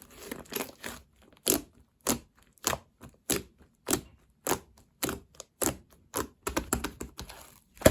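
Slime being pressed and squished by hand, giving short, sharp clicking pops at a steady pace of about one every half second or so, coming closer together near the end.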